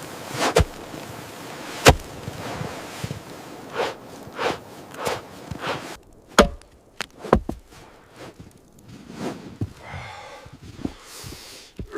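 A series of irregular sharp knocks and thuds, about a dozen, spaced unevenly with short gaps between them.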